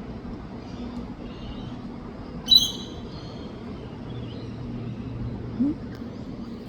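Faint bird chirps over a steady low hum, with one short, loud bird call about two and a half seconds in.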